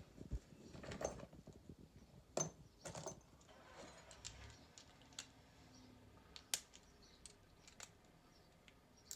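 Faint, scattered metallic clinks and clicks of small hand tools and metal parts being handled, with a few sharper taps about a second, two and a half seconds and six and a half seconds in.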